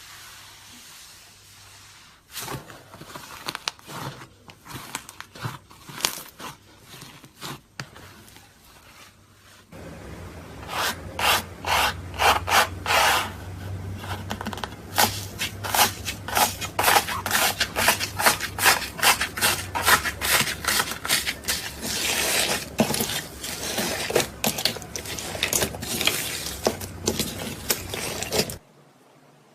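Slime being worked by hand: a fast, irregular run of crackling pops and squelches. It begins a couple of seconds in, grows denser and louder about ten seconds in, and stops abruptly near the end.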